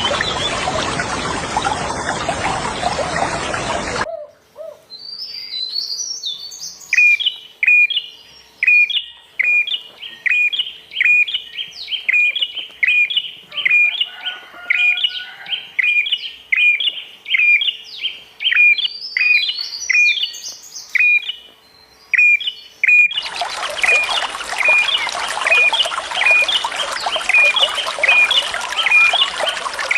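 A bird repeats a short call about twice a second, with higher twittering notes from other birds. Rushing water is heard for the first few seconds, cuts out abruptly, and comes back just as suddenly near the end.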